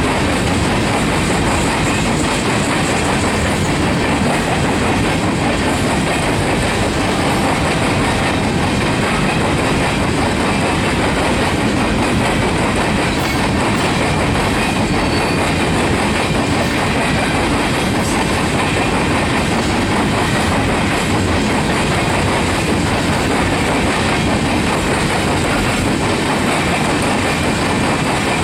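Freight cars of a loaded Union Pacific rock train rolling steadily past, wheels clacking over the track.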